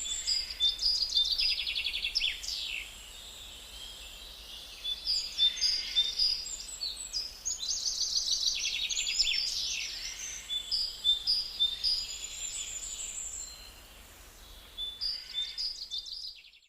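Songbirds singing in spring: repeated phrases of rapid high trills and short whistles with brief pauses between them, fading out at the end.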